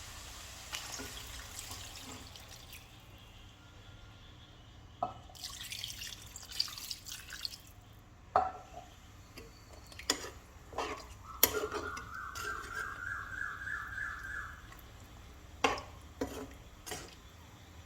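Water being poured for the curry, with a rising ringing tone for about three seconds past the middle as a vessel fills. Scattered clicks and knocks of kitchen utensils come throughout.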